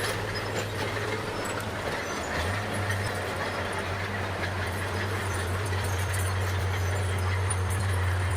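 Bulldozer's diesel engine running steadily under load, a deep drone that grows stronger about two and a half seconds in.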